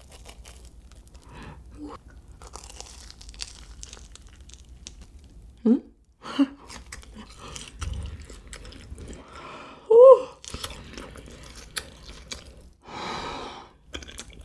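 Close-up eating sounds: a mozzarella hot dog with a chewy batter skin being bitten and chewed, with wet mouth sounds and many small clicks. Short hummed 'mm' sounds of enjoyment come about six and ten seconds in, and a breathy exhale near the end.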